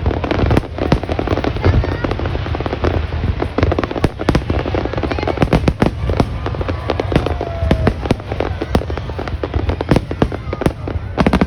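Fireworks display: a dense, continuous barrage of bangs and crackling pops over a steady low rumble.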